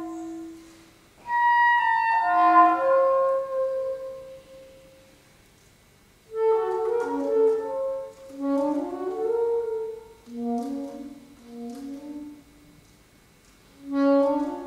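Solo saxophone playing a contemporary concert piece. Held notes die away into the hall's reverberation, and after a pause of a few seconds comes a quick, uneven run of short notes moving up and down, broken by another brief pause near the end.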